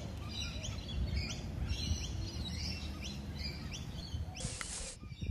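Birds chirping outdoors: short, quick falling chirps repeated about twice a second over a low steady rumble, with a brief burst of hiss near the end.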